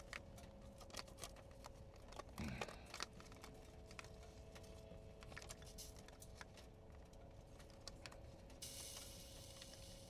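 Faint, irregular crackling and ticking of burning firewood.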